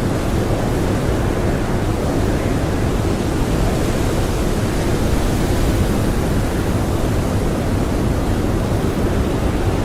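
Strong blizzard wind blowing as a dense, steady rush of noise, with no gusts or lulls standing out.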